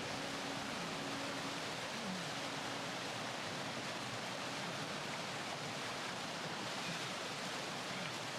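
Steady rush of river water, an even wash of noise that holds without a break.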